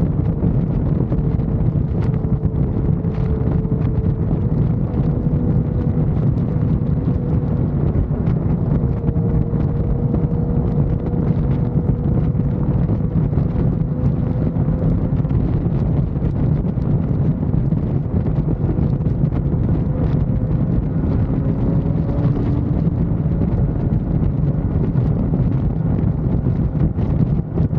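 Wind rushing over the microphone while riding a motorcycle at interstate speed, the engine a steady drone whose pitch creeps slowly upward.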